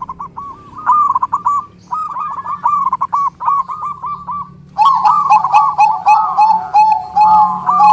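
Zebra doves (perkutut) cooing in rapid runs of short, rolling coo notes with brief pauses between phrases. About five seconds in, a second, lower series of coos joins and overlaps the first.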